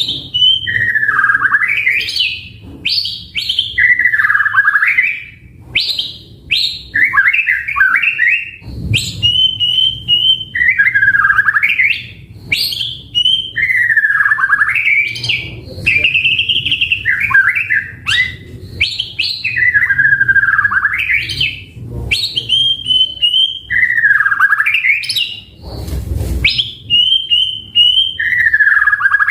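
White-rumped shama singing loud, repeated whistled phrases, every couple of seconds: a held high note, then a deep swoop down and back up, with bursts of quick stuttering notes between. A brief dull thump comes near the end.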